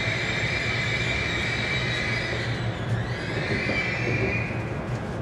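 Hokuriku Shinkansen train heard from inside the car as it slows alongside a station platform: a steady running rumble with a high whine that dips and shifts in pitch about halfway through.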